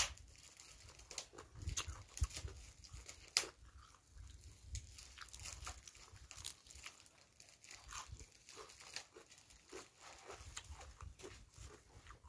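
Close chewing and crunching of green papaya salad and raw vegetables, a run of irregular crisp clicks and crackles, with fresh herb leaves being torn from their stems.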